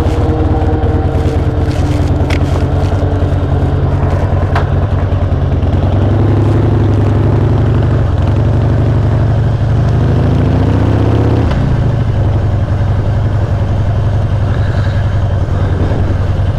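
Harley-Davidson V-twin motorcycle engine running under way, its pitch climbing steadily as it accelerates through a gear, then dropping suddenly with a shift about two-thirds through before running steadily again.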